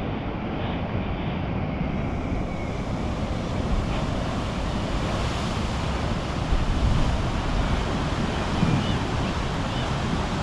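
Sea waves washing in below sea cliffs, mixed with wind rumbling on the microphone: a steady rushing noise with no break.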